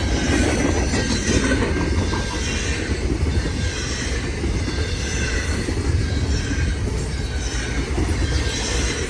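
CN Z100 intermodal freight train's cars rolling past: a steady rumble of wheels on the rails, with wheel squeal.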